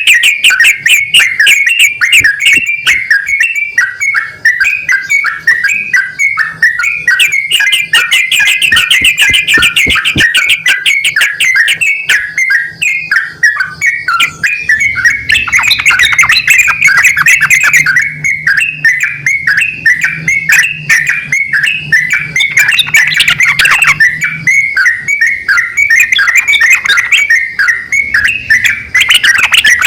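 Yellow-vented bulbuls, a male and a female, calling back and forth in loud, rapid chattering phrases of quick repeated notes.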